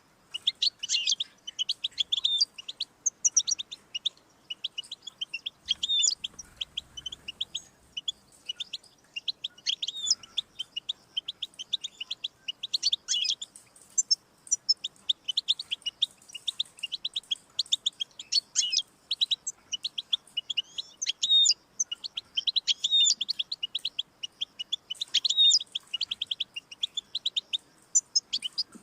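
European goldfinch singing: a fast, continuous twittering song of short high chirps and trills, with only brief pauses.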